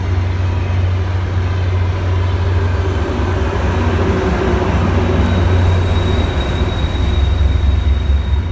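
Diesel train running close by, a heavy steady low rumble with rolling noise over it. A thin high-pitched squeal comes in about five seconds in.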